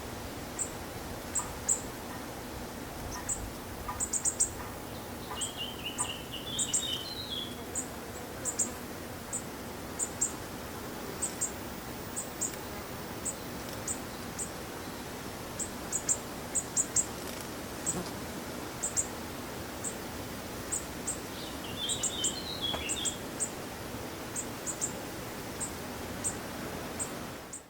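Short, very high-pitched bird calls, singly or in quick runs of two to four, repeated about once a second. Two brief warbling phrases from a second bird come in, about six seconds in and again near twenty-two seconds.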